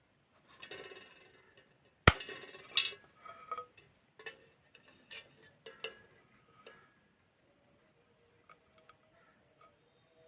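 A clay pot being crushed: a loud sharp crack about two seconds in, then a run of crunching and brittle clinking cracks as it breaks up, thinning to a few small ticks after about seven seconds.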